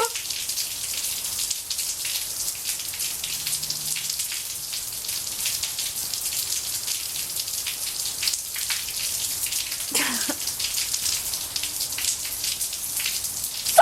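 Steady rain pattering on a hard surface, a dense hiss of many separate drop hits.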